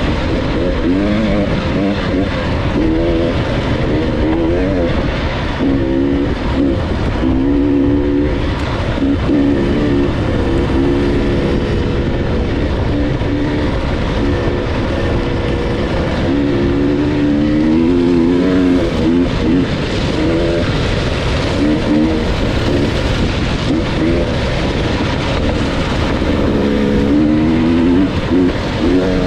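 Off-road dirt bike engine revving up and down over and over as it is ridden, its pitch climbing and dropping every second or two, over a steady rush of noise.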